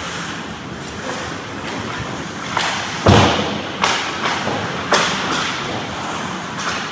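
Ice hockey play close to the goal: a loud thud of an impact against the rink boards about three seconds in, with sharper knocks just before and at about one-second intervals after.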